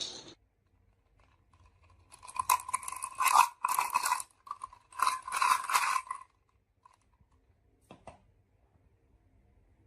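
Marbles rolling and clattering down a marble run track, a rapid rattle of clicks over a ringing rolling tone, in two runs a second apart, then a single click a couple of seconds later.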